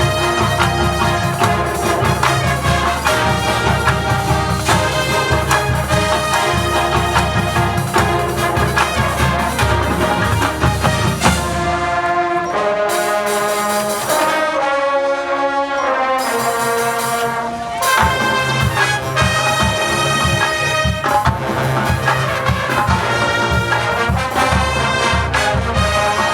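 High school marching band playing a brass-led tune with drums. About halfway through, the low brass and drums drop out for several seconds, leaving held chords that step in pitch, before the full band comes back in.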